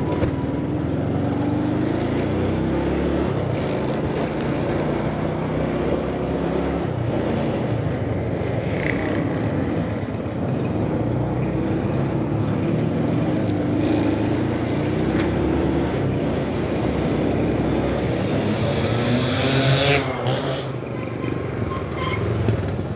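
Motorcycle engine running on the move, its pitch drifting up and down with speed, with road and wind noise. Near the end the engine pitch rises, then drops.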